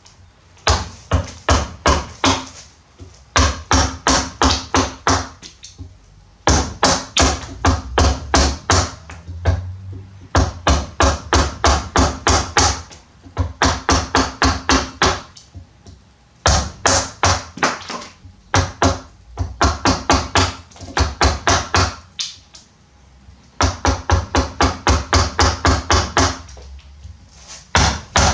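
Rapid repeated tapping strikes on wood, about four to five a second, in runs of a few seconds broken by short pauses.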